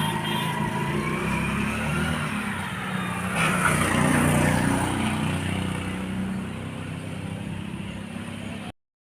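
A vehicle engine running, rising about three and a half seconds in and then fading as it moves away; the sound cuts off abruptly near the end.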